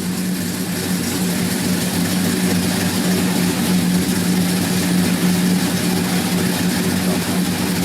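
Car driving with a steady drone over road noise, coming from a rear wheel: the sign of a worn rear wheel hub bearing, with a rubbing brake drum also suspected.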